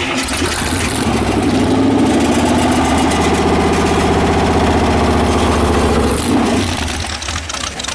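Car engine revved and held at high revs for several seconds, then let back down near the end, as the rear-loaded car strains to pull away.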